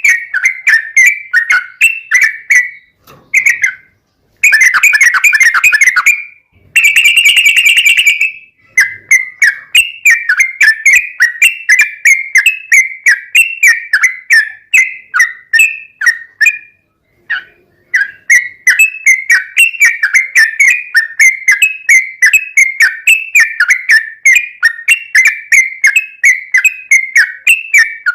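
Trucukan (yellow-vented bulbul) singing a fast run of repeated whistled notes, about four to five a second, with a few short pauses. About four seconds in come two dense, loud trills, the second one higher.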